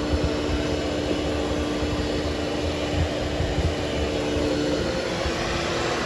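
13-inch Hoover Hushtone vacuum running steadily as it post-grooms a cleaned polyester carpet, its motor hum shifting in pitch near the end.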